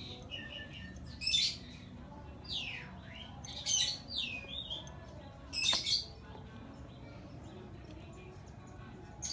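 Birds chirping: a few short high calls and sweeping, falling whistles in the first six seconds, then only a low steady background.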